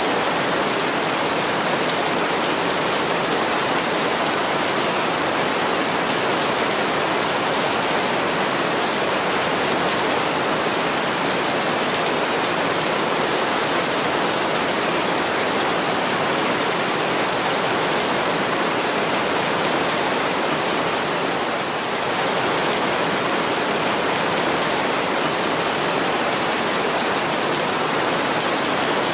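Heavy rain pouring steadily on window glass: a dense, even hiss with no breaks, dipping slightly once about two-thirds of the way through.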